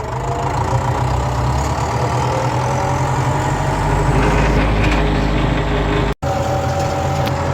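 Engine of the vehicle being driven, running steadily with its pitch rising over the first few seconds, then holding level. The sound drops out for an instant about six seconds in.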